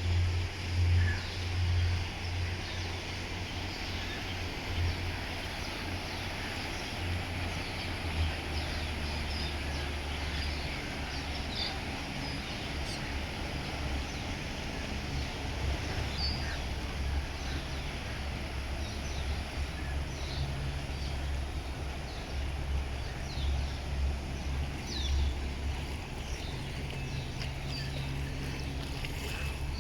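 A river cruise boat's engine running with a steady low drone as the boat arrives; its note drops a little about eight seconds in. Short bird chirps sound throughout.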